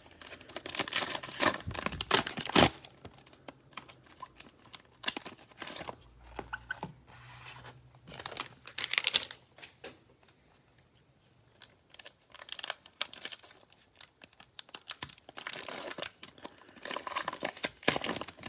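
Cellophane wrappers of Prizm football cello packs crinkling and tearing in irregular bursts as the packs are opened.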